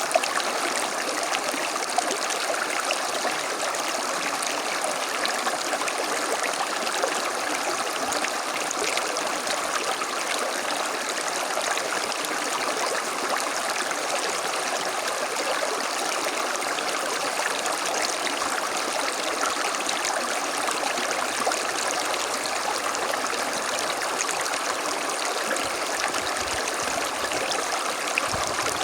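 A small creek running steadily over stones, a continuous rushing and trickling of water with small splashes.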